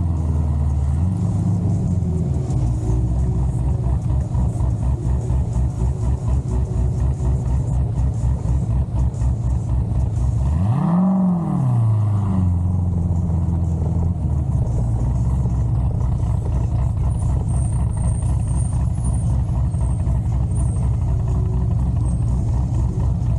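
Big-cam LS7 7.0-litre V8 of a C6 Corvette Z06 running with a choppy, lumpy idle. About ten seconds in there is one quick rev whose pitch rises and falls back. After that it settles into a steadier engine note.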